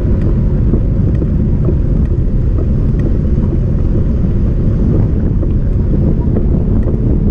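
Wind buffeting the camera microphone on a moving fat-tire bike, a loud, steady low rumble with tyre and road noise and a few faint ticks.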